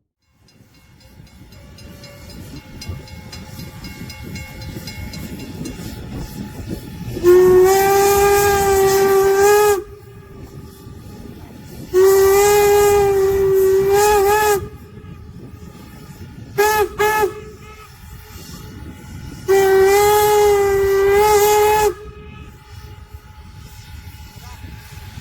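Steam whistle of N&W 475, a 4-8-0 steam locomotive, blowing long, long, short, long: the grade-crossing signal. Before it, the train's running noise grows louder as it approaches.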